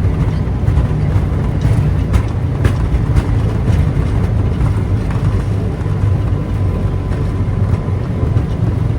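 Flight-deck noise of a Boeing 737 MAX 8 on its landing rollout: a steady low rumble with occasional light rattles.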